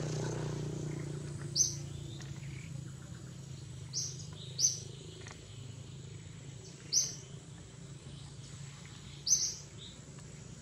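A bird's short, high chirp repeated five times at roughly even intervals of two to three seconds, over a low steady hum.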